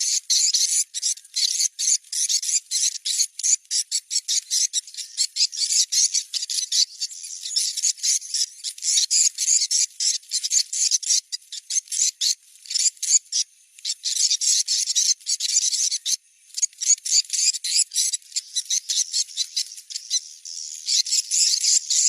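Recorded swiftlet calls, the 'location check' lure sound played to draw swiftlets when choosing a site for a swiftlet house. It is a dense, rapid, high twittering with brief breaks about thirteen and sixteen seconds in.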